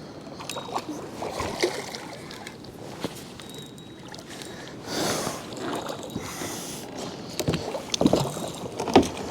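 Water splashing and sharp knocks against a kayak as a hooked channel catfish is brought alongside to be netted, with one bigger splash about five seconds in and a flurry of knocks and splashes near the end.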